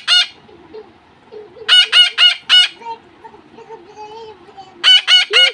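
Pet parakeets screeching in quick runs of four or five harsh calls. One run ends just at the start, another comes about two seconds in, and a third comes near the end.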